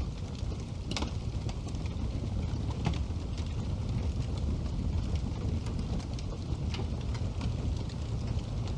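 Wood fire burning in a fireplace: a steady low rumble of flames with scattered sharp crackles and pops, a louder pop about a second in and another near three seconds.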